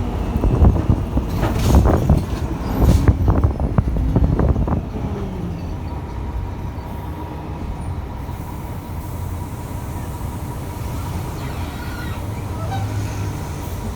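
Mercedes-Benz O500UA articulated bus with a BlueTec 5 diesel engine, heard running on the move. For the first five seconds or so its body rattles and knocks loudly over the engine rumble; after that the sound settles into a steadier, quieter hum.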